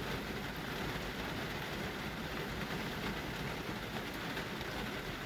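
Heavy rain falling steadily, an even unbroken hiss, coming down pretty good.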